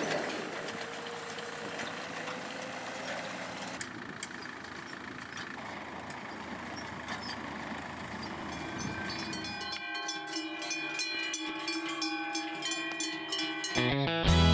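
A vehicle running, with no clear engine pitch, and steady musical tones coming in near the end.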